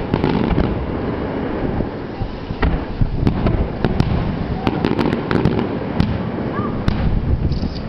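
Fireworks finale: a dense run of shells bursting, with a continuous low rumble of booms and many sharp cracks and crackles scattered through it.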